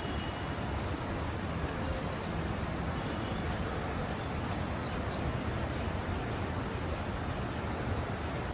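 Steady outdoor background noise without speech, heaviest in the low end, with a few faint high chirps or squeaks in the first few seconds.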